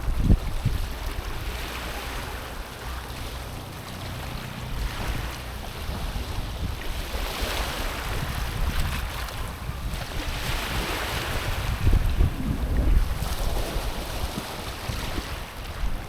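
Small sea waves lapping and washing over a stony shore, the hiss of the wash swelling and easing every few seconds, with gusts of wind buffeting the microphone as short low rumbles.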